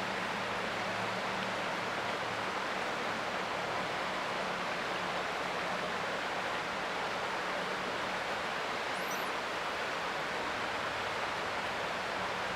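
Creek water flowing in a steady, even rush. A faint low drone underneath fades out about halfway.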